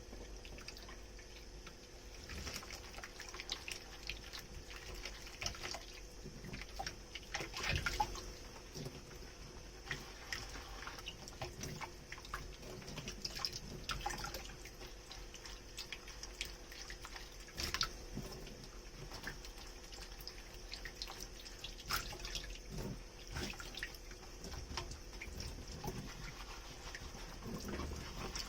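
Dishes being washed in a kitchen sink: water dripping and trickling, with scattered small clicks and splashes of wet dishes and sponge.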